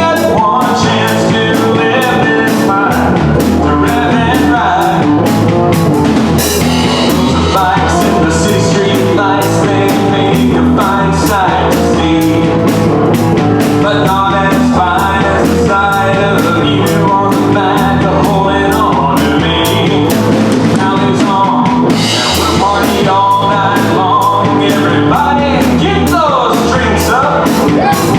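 A live country band playing a song: drum kit keeping a steady beat under guitars and bass, with a singer.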